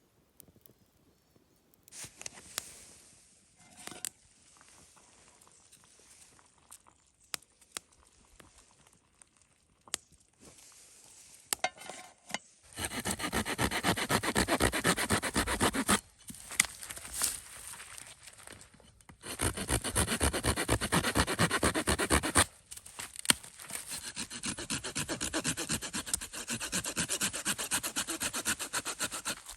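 A hand saw cutting through wood in three spells of quick, even back-and-forth strokes, after some quiet clicks and rustles of handling.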